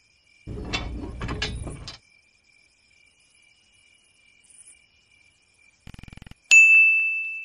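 A mechanical clatter lasting about a second and a half, then a short fast rattle, then a single bright chime struck about six and a half seconds in, which rings on and fades slowly.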